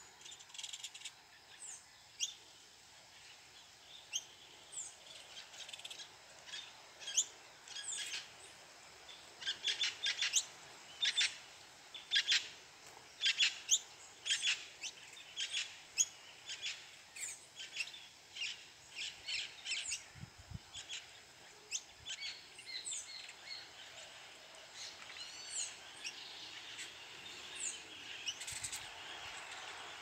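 Small birds chirping: many short, high chirps in quick scattered runs, thickest around the middle, over a faint steady high-pitched tone.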